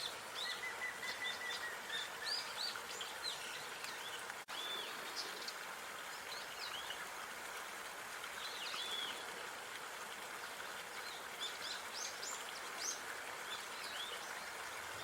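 Small birds chirping and twittering, with many short, quick calls and one held whistled note early on, over a steady outdoor hiss. A momentary break in the sound about four and a half seconds in.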